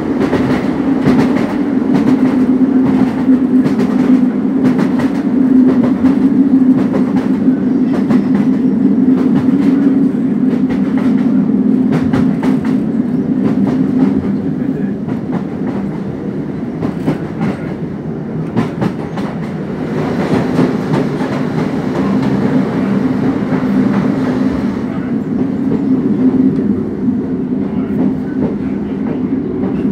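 Inside a Class 150 Sprinter diesel multiple unit on the move: a steady, loud diesel drone with scattered clicks from the wheels over the rail. The drone eases off about halfway through and builds again about two-thirds in.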